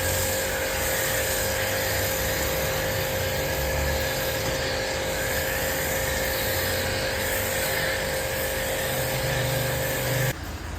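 A motor-driven car-cleaning machine runs steadily with a constant whine and a strong hiss, then is switched off abruptly near the end.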